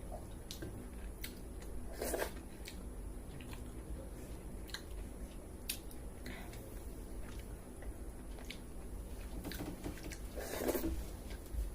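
Close-up eating sounds: chewing with small wet clicks and smacks, and two louder bites or mouthfuls, one about two seconds in and one near the end.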